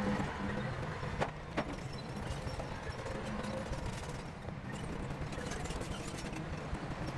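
Shantui crawler bulldozer's diesel engine running steadily, with a clatter from its steel tracks and two sharp knocks about a second in.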